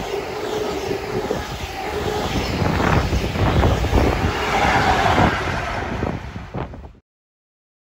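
CrossCountry InterCity 125 high-speed train (Class 43 HST with MTU-engined diesel power cars) passing at speed: a heavy rumble of wheels on the rails and coaches, with a steady engine whine early on and wind buffeting the microphone. The sound cuts off abruptly about seven seconds in.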